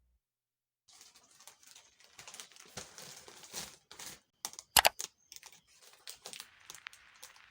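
Close-up small handling sounds: light rustling and crinkling mixed with soft taps, and two sharp clicks close together about five seconds in.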